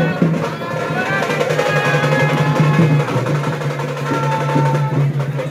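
Loud festival music with drumming: a steady low drone under wavering higher tones, with drum rolls.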